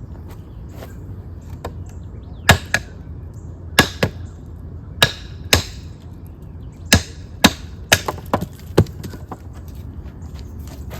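Chopping and splitting a piece of decayed, spalted water oak: about a dozen sharp wooden strikes, irregularly spaced and often in quick pairs, starting a couple of seconds in.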